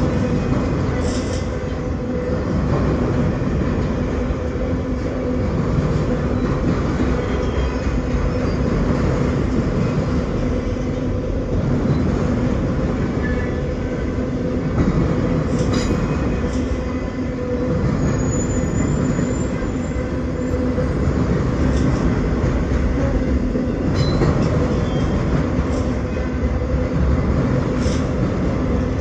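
A long freight train of enclosed autorack cars rolling past close by: a steady, even rumble of steel wheels on rail, with a few sharp clicks scattered through it.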